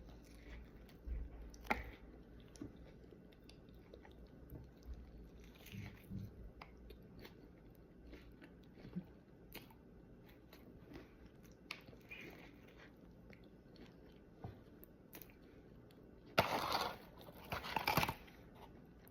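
Close-miked chewing of a Chicken Big Mac: soft, wet mouth sounds and small clicks, with two louder crunchy, noisy bursts near the end.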